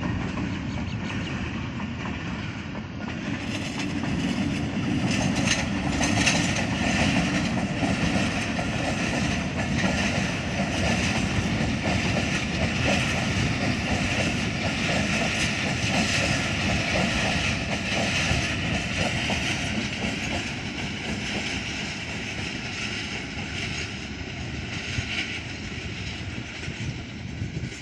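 A moving train running on the rails: a continuous rumble with clusters of short clicks from the wheels.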